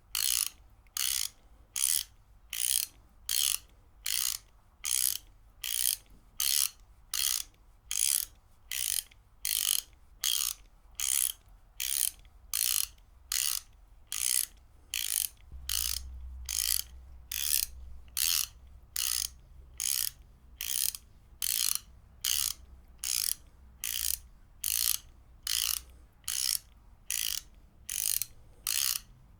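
Ratchet wrench ratcheting in short, evenly spaced bursts of rapid clicks, about two bursts a second.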